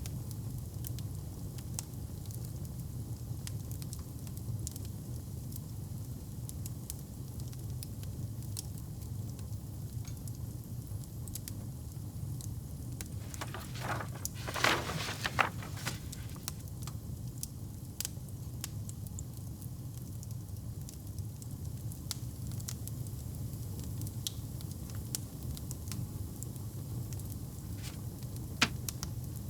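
A wood fire burning in a fireplace: a steady low rumble with scattered sharp crackles and pops. About halfway through comes a louder flurry of crackles lasting a couple of seconds, and there is a single sharp pop near the end.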